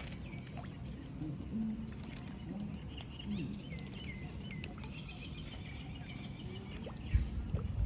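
Small birds chirping and trilling softly over a steady low rumble, with a few heavy low thumps near the end.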